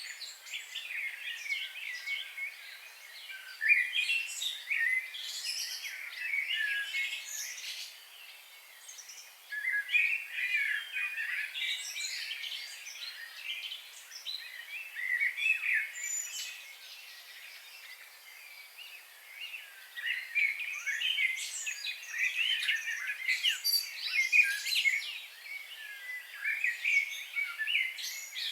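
Several songbirds singing and chirping together in a dense chorus of quick, high chirps and trills, coming in bouts with brief quieter spells.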